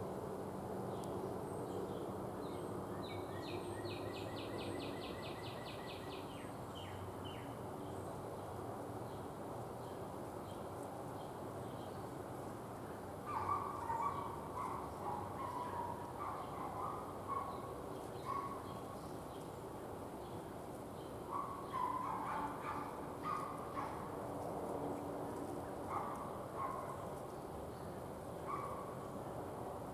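Small songbirds calling at a feeder: a fast, even trill a few seconds in, then a run of short, repeated chirps through the second half.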